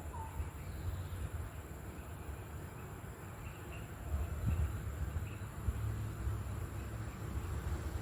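Birds chirping: a short call right at the start, then a few faint, high, short chirps through the middle, over a steady low rumble.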